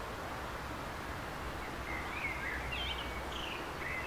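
Steady outdoor background hiss with a low rumble underneath, and a small bird calling in a series of short chirps through the middle.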